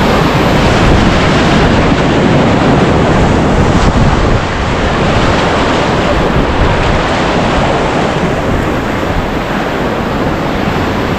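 Loud, steady rush of whitewater from a river running at high flow, with wind buffeting the microphone.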